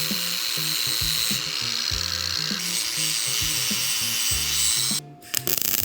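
Small benchtop pillar drill boring through metal, a steady high whine and hiss that cuts off about five seconds in. Background music with a beat plays underneath.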